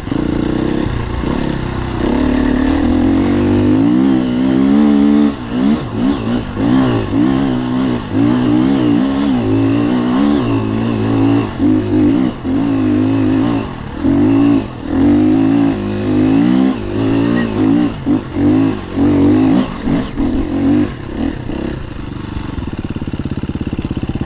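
Enduro dirt bike engine revving hard again and again, its pitch rising and falling with quick throttle openings and cut-offs.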